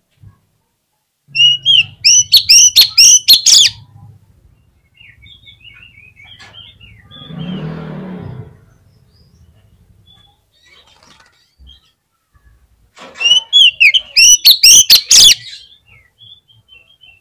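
Oriental magpie-robin (kacer) singing: two loud bursts of rapid, sweeping high notes, one near the start and one near the end, with a softer, lower sound and a few faint notes in between.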